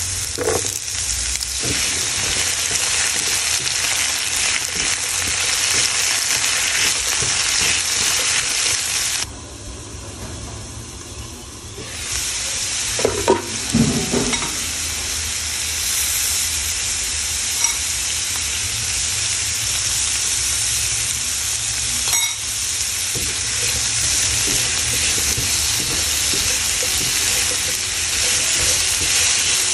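Onion, garlic and sliced green papaya sizzling in hot oil in a nonstick frying pan, stirred with a spatula. The sizzle drops away for a few seconds about nine seconds in, then returns with a few short knocks.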